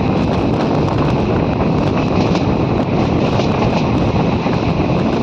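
Passenger train running at speed, heard from an open coach door: a steady rush of wind on the microphone over the rumble of the wheels on the rails.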